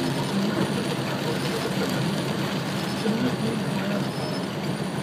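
Heavy rain falling on a car's roof and windshield, with the steady hum of the car and the traffic around it, heard inside the cabin.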